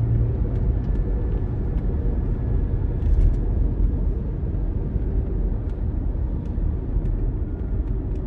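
Car driving, heard from inside the cabin: a steady low rumble of engine and road noise, with a few faint, irregular clicks.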